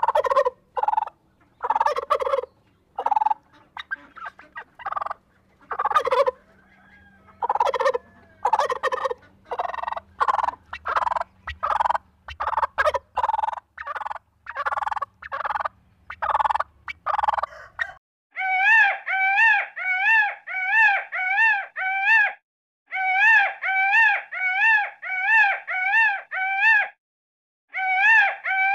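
Turkey toms gobbling in short, repeated bursts for about the first eighteen seconds. Then an Indian peafowl (peacock) calls in runs of short, wavering nasal notes, about two a second, three runs in all.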